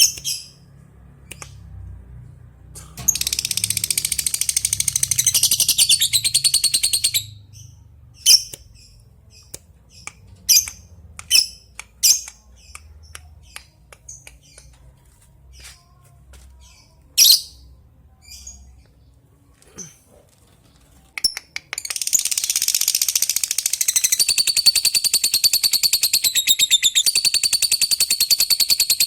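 Lovebird calling: a burst of rapid high chatter a few seconds in, then a string of sharp single chirps, then a long unbroken rapid chattering trill (ngekek) that starts about two-thirds of the way through and carries on.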